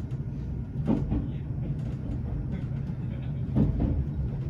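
Limited express train running, heard from inside the passenger car: a steady low rumble with a few short knocks from the wheels passing over the track.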